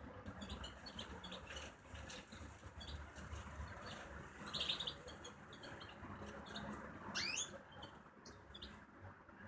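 A bird chirping in short repeated calls, with a louder call about halfway through and a quick rising sweep about three-quarters in.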